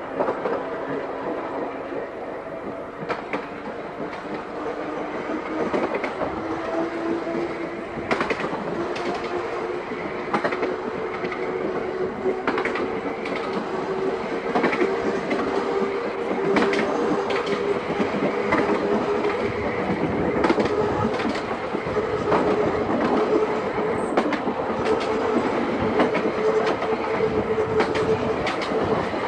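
Seaton Tramway narrow-gauge electric tram running along the line, a whine rising in pitch as it gathers speed over the first half, then holding steady. Its wheels click irregularly over the rail joints.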